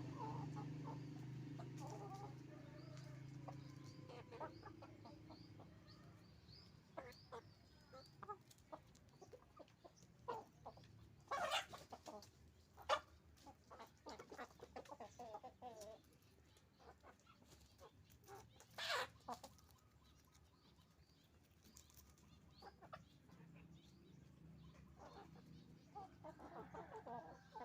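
Domestic chickens clucking faintly, with scattered short calls and two louder squawks about 11 and 19 seconds in. A low hum fades out over the first few seconds.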